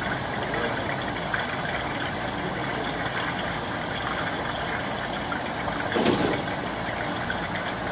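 An engine idling steadily, with a brief louder rush about six seconds in.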